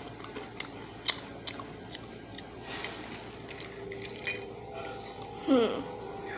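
Scattered small clicks and taps, the sharpest about a second in, and a short sound falling steeply in pitch near the end.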